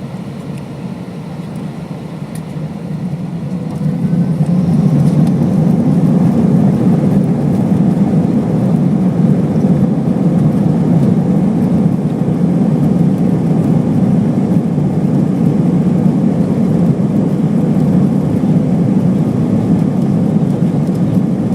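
Cabin noise of an Airbus A319's jet engines spooling up to takeoff thrust, swelling over the first few seconds and then holding a loud, steady rumble as the aircraft rolls for takeoff.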